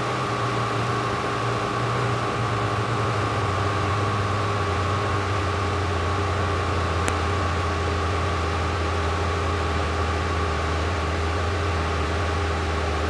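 Cessna 172 piston engine and propeller droning steadily in the cabin with a hiss of airflow, on final approach just before touchdown. The engine note settles a little lower a few seconds in.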